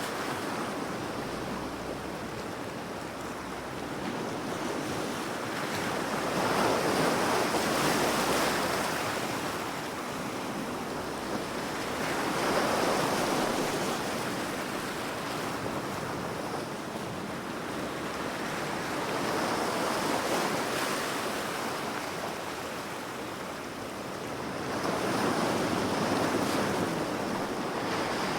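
Ocean surf: waves rushing in and washing back, swelling and fading four times in slow succession over a steady hiss of water.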